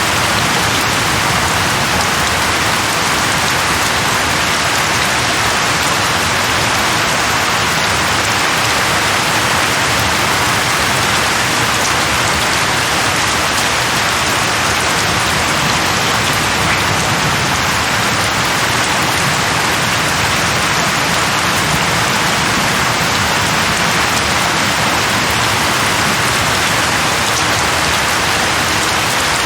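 Steady rain falling on leaves, an even hiss with no letting up or thunder.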